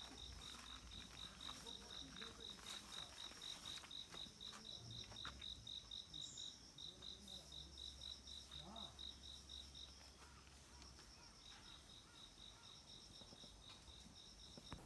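Faint insect chirping: a steady train of short, high pulses about four a second, breaking off briefly about ten seconds in and then resuming.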